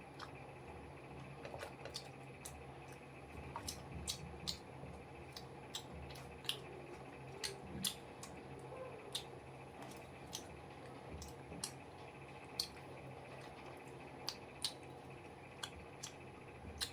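A person eating, chewing with irregular wet mouth clicks and smacks, roughly one a second, over a steady low hum.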